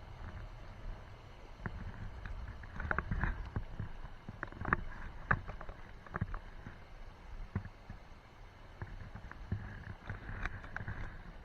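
Irregular sharp clicks and knocks, scattered unevenly, over a steady low rumble of wind on the microphone.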